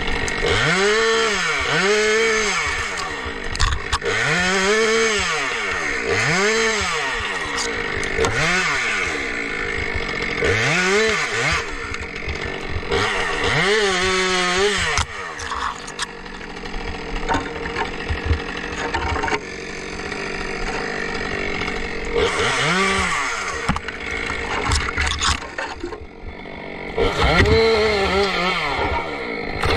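Two-stroke chainsaw revved up and let back down again and again, each rev lasting about a second. The revving eases to a lower, steadier running for several seconds in the middle, then picks up again twice near the end.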